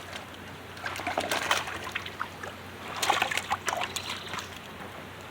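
Water splashing in two bursts, about a second in and about three seconds in, over the steady rush of a creek: a hooked trout thrashing at the surface as it is reeled in.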